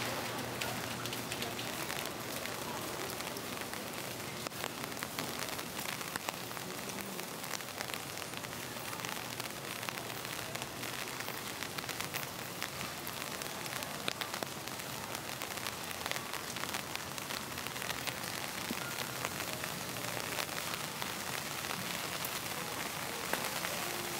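Steady rain falling on a city street: an even hiss scattered with many small, sharp drop ticks.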